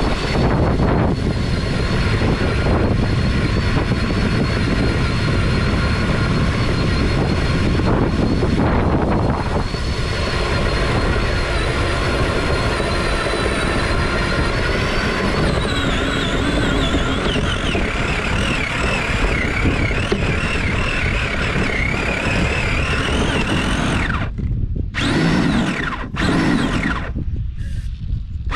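Nitro (glow-fuel) engine of a radio-controlled car running at high revs with a steady high whine, the pitch dropping and wavering from about halfway as the throttle changes. Near the end the whine briefly drops out a few times.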